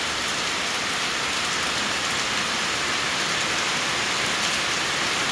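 Heavy rain falling steadily, an even dense hiss with no letup.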